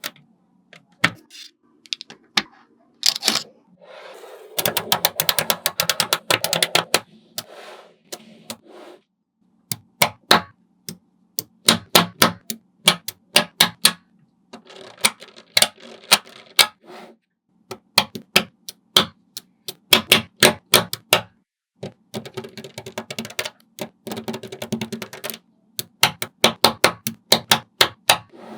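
Small magnetic balls clicking together as they are snapped into place, with single sharp clicks and quick runs of clicks and a denser rattling stretch about five seconds in.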